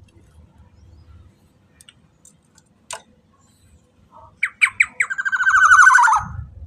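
Black-naped oriole calling: a few short sharp notes about four and a half seconds in, then a loud, harsh, rasping call lasting just over a second that drops slightly in pitch at its end.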